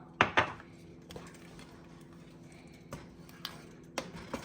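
A kitchen utensil knocking and clinking against a cooking pot: two sharp knocks about a quarter second in, then scattered lighter taps. A steady low hum runs underneath.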